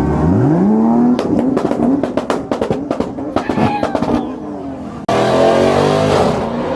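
Car engine revving up hard, followed by a rapid irregular string of sharp pops and cracks. About five seconds in, a loud engine abruptly cuts in, revving with wavering pitch.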